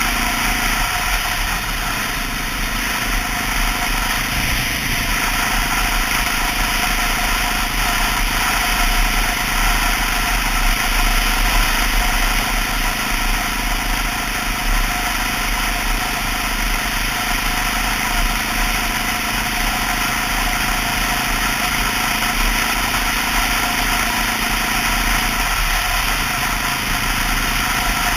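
Honda XR650L's single-cylinder four-stroke engine running steadily under way on the motorcycle, mixed with a constant rushing noise.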